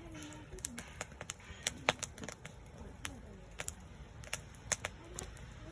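Wood campfire crackling, with frequent sharp pops at irregular intervals. Faint voices are heard in the background at the start and near the end.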